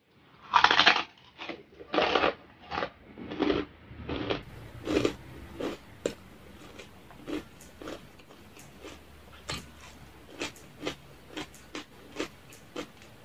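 Crunching bites into crispy fried pork rind (chicharon), then chewing. Several loud crackling crunches come in the first few seconds, followed by short sharp crackles of chewing, about two a second.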